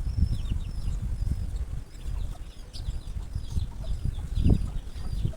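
Birds chirping with short, high repeated calls over a low, uneven rumble, with one heavier low thump near the end.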